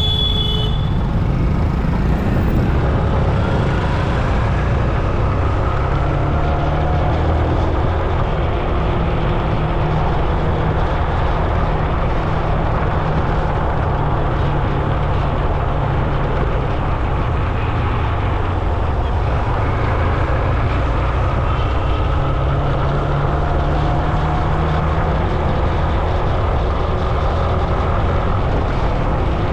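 Steady vehicle riding noise on a road: low rumble and wind with a faint engine hum whose pitch rises and falls now and then.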